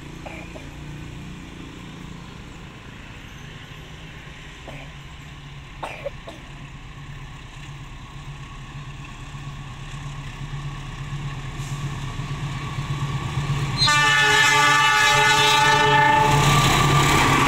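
Passenger train hauled by a diesel locomotive approaching, its running noise slowly growing louder. About fourteen seconds in the locomotive sounds a loud horn blast of nearly three seconds, after which the train passes close by.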